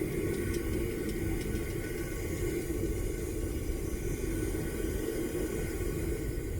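Homemade propane furnace burner running with a steady low rushing noise, the gas turned down while brass melts in it. A few faint ticks in the first second and a half.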